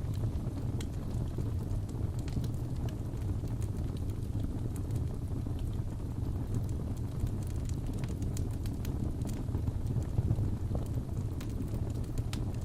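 Crackling fireplace: a steady low rumble of burning with frequent small sharp pops and crackles scattered irregularly throughout.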